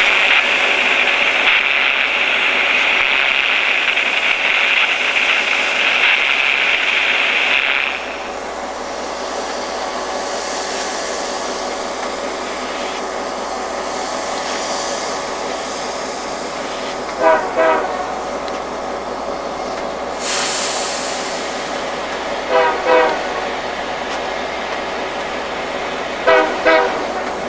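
A train rolling past. A loud, steady high-pitched tone sounds over it for the first eight seconds and cuts off sharply. Later come three pairs of clacks, a few seconds apart, as wheels cross a rail joint.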